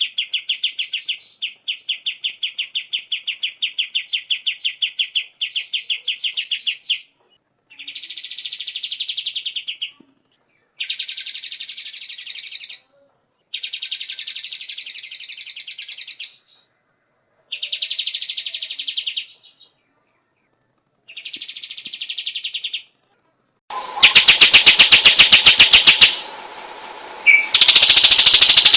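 Songbird song from a tutor recording used to train white-rumped shamas. It opens with fast trills of rapidly repeated chirps, then breaks into short separate phrases with pauses. About 24 seconds in, a much louder, harsh rattling passage begins.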